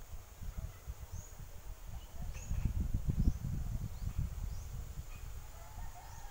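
Countryside ambience: a bird repeats a short, high chirp about once a second over an uneven low rumble of wind buffeting the microphone.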